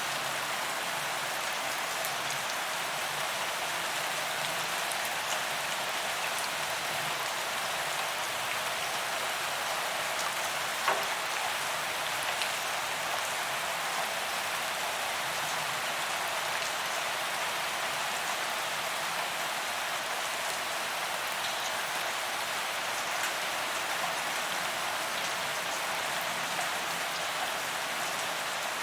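Steady rain falling on a paved promenade: a dense, even hiss of drops with scattered individual drop ticks, and one sharper tick about eleven seconds in.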